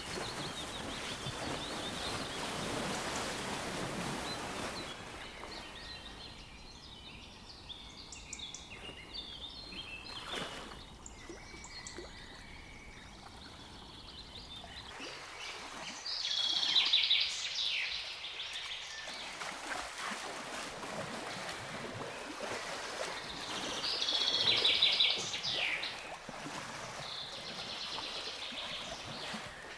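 Wild birds calling over a soft hiss of running water that fades after the first few seconds. Twice in the second half a bird gives a louder, rapid trill of high notes.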